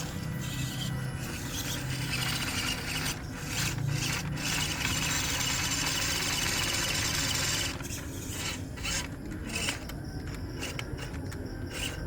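MN99S D90 RC crawler driving over dirt: its small electric motor and gears whir with a rasping scrape. It runs loudest in the middle, then drops off about seven and a half seconds in, leaving a few clicks.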